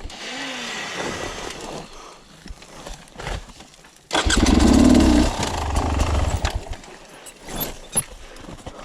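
Dirt bike engine, low at first, then revving hard in a sudden burst about four seconds in that lasts a couple of seconds before dropping back.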